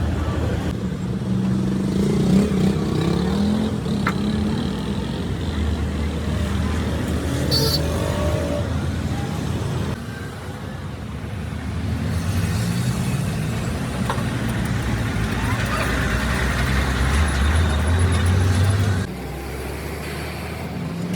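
A truck engine running, rising in pitch twice as it revs up, with background voices.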